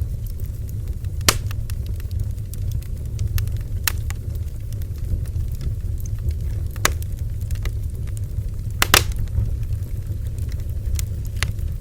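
Bonfire burning with a steady low rumble and scattered sharp crackles and pops from the wood, a few seconds apart; the loudest is a quick double pop about nine seconds in.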